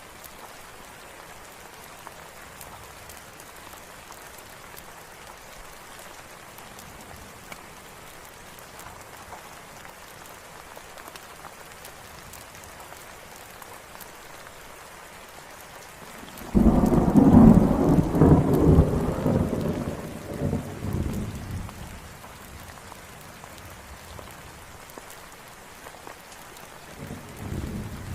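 Steady rain falling, broken about two-thirds of the way through by a sudden loud thunderclap that rumbles and dies away over about five seconds; a fainter roll of thunder comes near the end.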